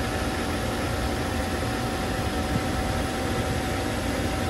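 Mercedes-Benz W140 S-Class straight-six engine idling steadily, heard with the bonnet open.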